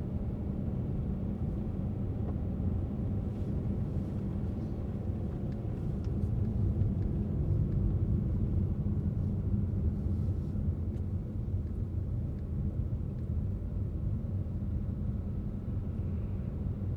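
Steady low rumble of a car driving: engine and tyre noise on the road, swelling a little about halfway through.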